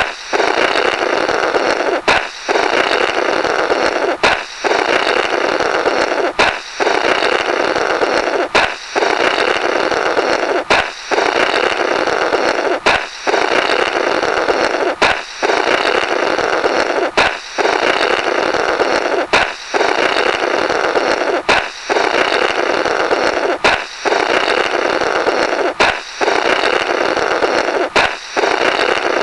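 Cartoon 'Blorrrt' balloon-break sound effect, looped: a sharp balloon pop followed by a long noisy blow through the burst balloon's remnants. It repeats about every two seconds, around fourteen times.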